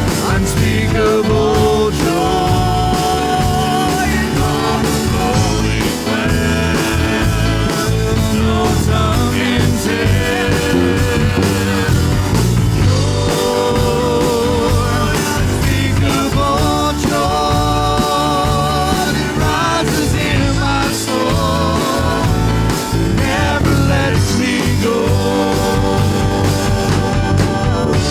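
A worship band playing a rock-style praise song, with a singer's voice over the band and drums.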